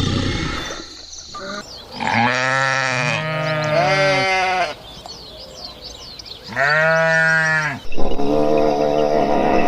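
Farm animals bleating: a low, rough sound in the first second, then a series of drawn-out bleats. Two overlapping bleats come about two seconds in, a single one near seven seconds, and another starts at about eight seconds.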